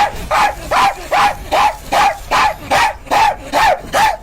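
Rapid, evenly paced barking, about two and a half barks a second, each bark rising and then falling in pitch.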